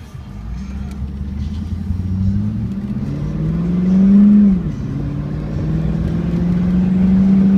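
2000 Pontiac Firebird Trans Am's 5.7-litre V8 with aftermarket exhaust accelerating, the engine note climbing steadily, then dropping suddenly about halfway through as the automatic transmission upshifts, before pulling up again in the next gear.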